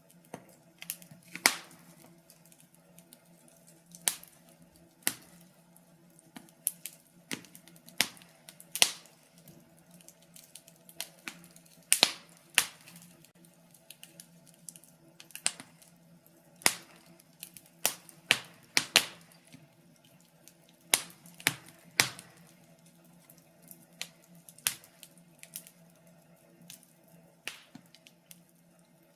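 Wood fire crackling, with irregular sharp pops and snaps at uneven intervals over a faint steady low hum.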